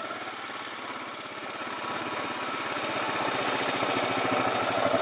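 A small vehicle engine running steadily with an even pulse, growing gradually louder.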